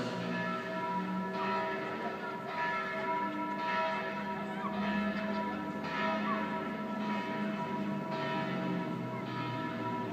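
Bells ringing, with a fresh strike about once a second and each note ringing on under the next.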